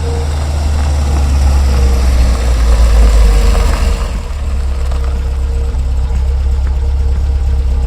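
Car engine idling steadily, with a strong low rumble and a steady higher hum over it; it swells a little about three seconds in.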